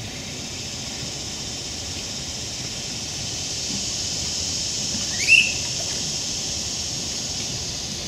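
A single short, sharp, rising squeal from a bird about five seconds in, over a steady high hiss.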